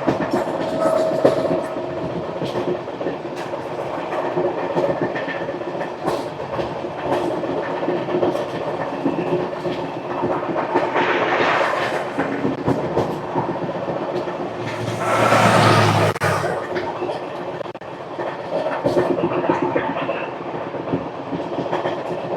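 Express passenger train running along the line: a steady rumble of the coach with scattered sharp clicks from the wheels on the track. About two-thirds of the way through comes a louder rushing swell lasting a second or two.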